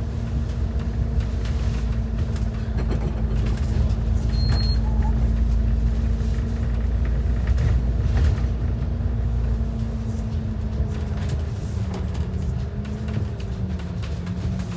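Transit bus engine and road noise heard from inside the cabin: a steady low rumble with a held engine drone that wavers and dips in pitch after about ten seconds.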